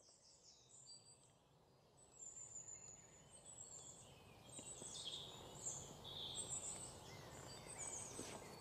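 Faint birds chirping, many short high calls over a soft background hiss, starting about two seconds in.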